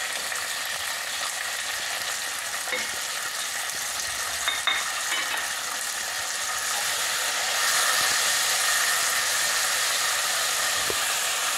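Chopped tomatoes and potatoes sizzling in hot oil in a non-stick kadhai while being stirred with a slotted spatula, with a few light clicks. The sizzle grows louder about two-thirds of the way through.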